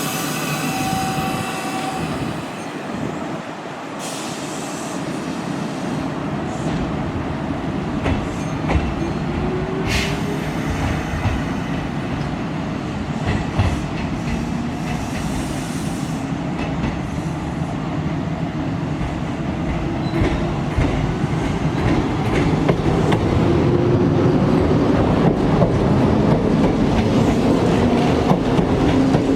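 Kintetsu Minami-Osaka Line electric train at the platform, its wheels rumbling on the rails with scattered clicks from the rail joints. In the second half the sound grows louder and a whine glides in pitch.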